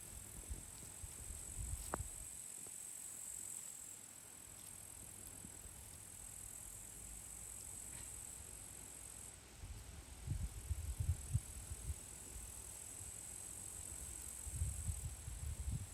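Steady high-pitched insect chirring, with low rumbles of wind buffeting the microphone about ten seconds in and again near the end, and a single click about two seconds in.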